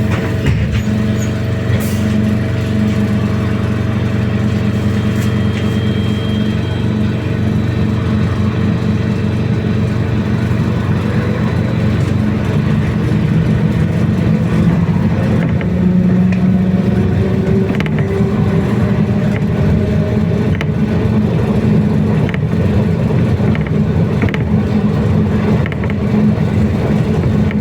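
BKM-321 trolleybus heard from inside the passenger cabin while under way: the electric traction drive whines, its tones rising and falling as it speeds up and slows, over a steady rumble of road and body noise.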